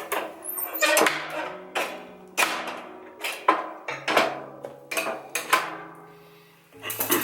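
About eight sharp knocks at uneven intervals, each with a short ringing tail, with soft background music underneath.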